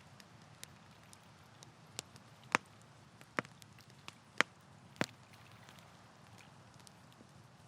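Wood campfire crackling: scattered sharp pops and snaps over a low steady hiss, with the loudest pops coming between about two and five seconds in.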